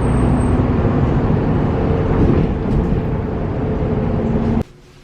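Loud, steady rumbling noise with a faint hum, cutting off suddenly near the end.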